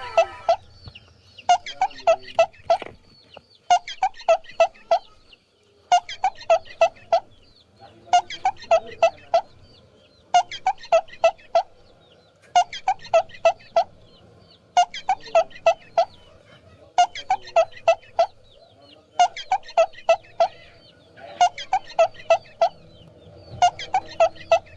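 Chicken clucking in short runs of four or five quick clucks, the runs repeating evenly about every two seconds.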